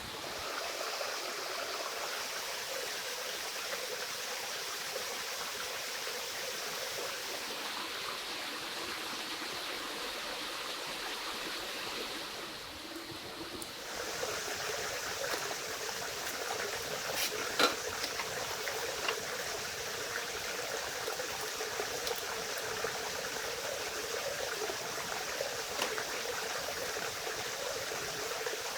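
A stream of water flowing steadily, with a short quieter dip about twelve seconds in and a few small sharp clicks afterwards.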